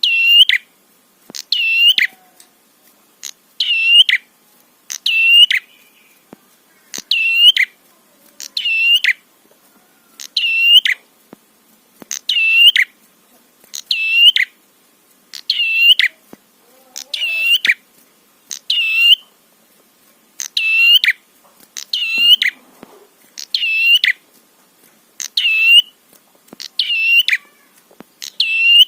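Red-headed prenjak singing: a loud, short, sharp call phrase repeated over and over, about once every second or so.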